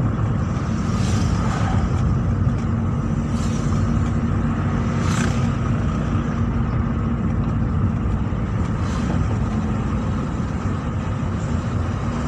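Car driving through town traffic, heard from inside the cabin: a steady engine and road rumble with a low hum, and a few brief hissing swells.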